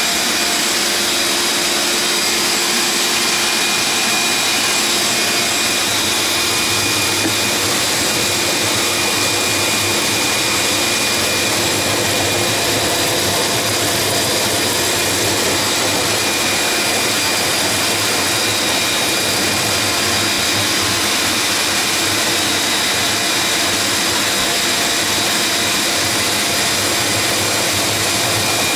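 Shop vac running steadily at full speed with a high whine, pulling ice meltwater out of a refrigerator's freezer drain hose during defrosting.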